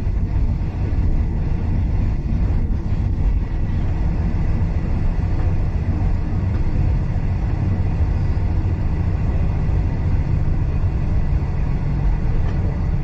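Passenger carriage of a steam-hauled train rolling along the track, heard from inside: a steady low rumble.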